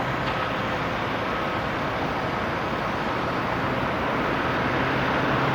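Steady vehicle and road noise: an even rushing sound with a constant low hum underneath.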